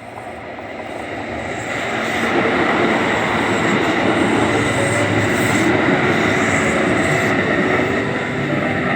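Kintetsu limited express train passing at speed, its running and wheel-on-rail noise building over the first two seconds, staying loud, then easing a little near the end.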